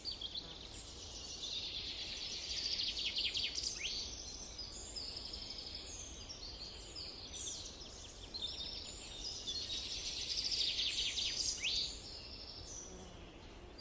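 Summer forest birdsong: several birds chirping and trilling at once, with two long, fast trills about eight seconds apart standing out as the loudest parts.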